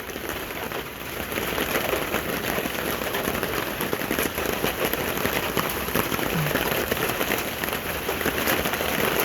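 Heavy thunderstorm downpour pattering on a small tent canopy overhead: a dense, steady rush of countless drops that grows a little louder about a second in.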